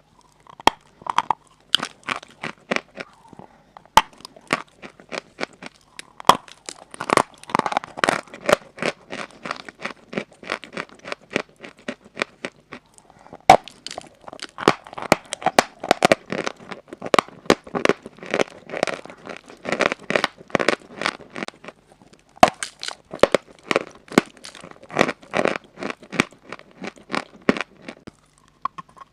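Pieces of chalk being crunched and crumbled close to the microphone: dense, rapid crackling with a few sharp snaps as pieces break.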